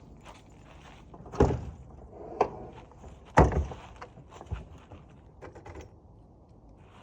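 A series of knocks and thumps around a car, like a car door being handled, the loudest about three and a half seconds in. From about six seconds in a steady low hum begins.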